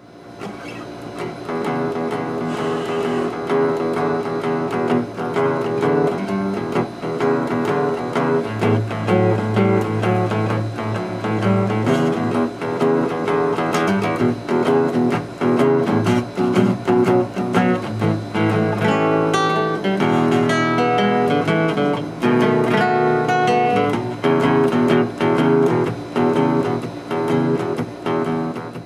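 Acoustic blues guitar playing, a run of picked notes and strums; it starts out of silence and dies away near the end.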